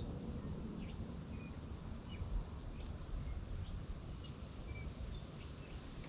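Outdoor ambience of small birds giving scattered short, high chirps and thin whistled notes over a steady low rumble.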